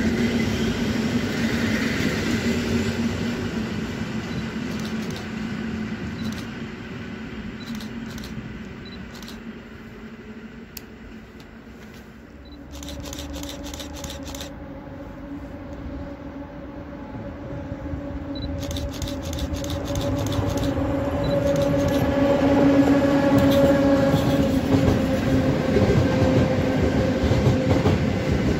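An EN57 electric multiple unit pulling away and fading out. Then a PKP Cargo ET22 electric freight locomotive hauling empty container flat wagons approaches, growing louder over several seconds, with a steady two-tone hum and the rumble of its wheels on the rails.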